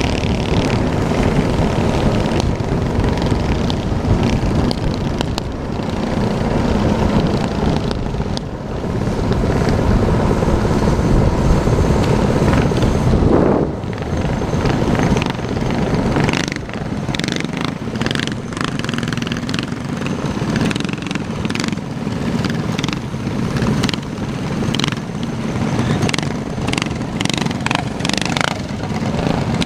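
Small single-cylinder minibike engine running steadily while the bike is ridden, with frequent short crackles and knocks in the second half.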